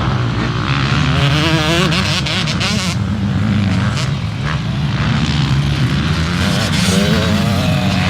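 Motocross bikes' engines revving, their pitch rising and falling again and again over a steady lower engine drone.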